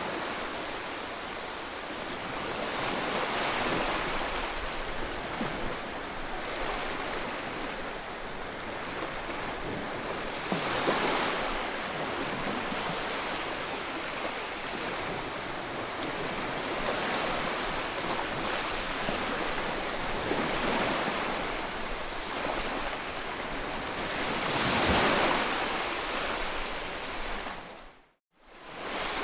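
Sea waves breaking and washing on the shore, a continuous rush of surf that swells with each breaker, with the loudest near the end. The sound drops out abruptly for a moment just before the end.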